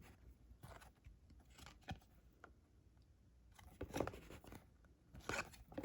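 Faint handling of baseball trading cards: a few brief scrapes and clicks as cards slide off one another while a pack is flipped through.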